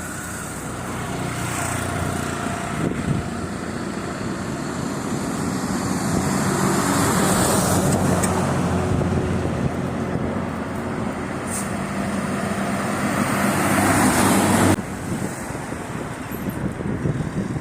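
Road traffic: motor vehicles running past, the noise building steadily over many seconds, then cut off abruptly near the end, leaving a lower, uneven rumble.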